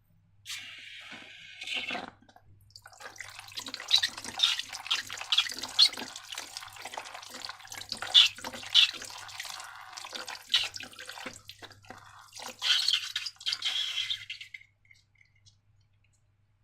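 Slime being squeezed and worked by hand: wet squelches and sticky clicks in an irregular quick run. A short rustle comes before it, and it stops a couple of seconds before the end.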